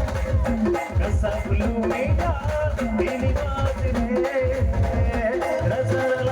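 Live band music without singing: a steady, driving drum beat under a held note and a wavering melody line.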